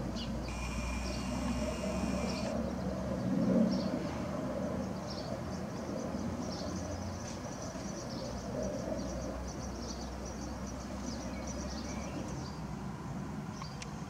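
Small birds chirping outdoors in short, high calls, twittering more steadily in the middle of the stretch, over a continuous low rumble that swells briefly a few seconds in. A steady high whine sounds for about two seconds near the start.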